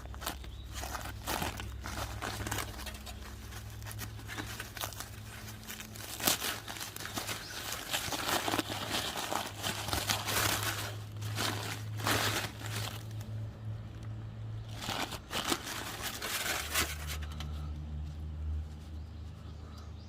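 Aluminium foil crinkling and tearing in irregular bursts as it is pulled open from around a hot, campfire-baked sweet potato.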